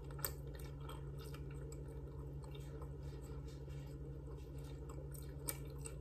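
A person chewing a bite of steamed chicken breast sandwich on a soft Hawaiian roll, mouth closed, with small wet mouth clicks, over a steady low hum.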